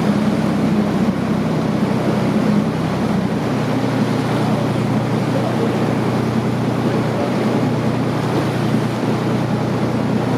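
Motorboat engine running steadily under way, a low even hum, with the rush and splash of water along the hull.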